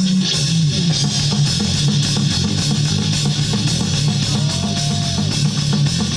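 Rock band playing: electric guitar and bass over a drum kit with steady cymbals, without singing.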